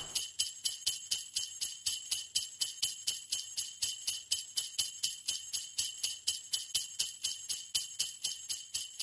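Jingle bells shaken in a steady, even rhythm, about four shakes a second, bright and high.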